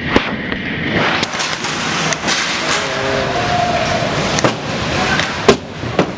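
Ice hockey game in play: several sharp clacks of sticks and puck, the loudest about five and a half seconds in, over steady rink noise of skating and crowd.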